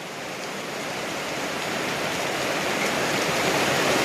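Heavy rain and rushing runoff water: a steady hiss that grows gradually louder.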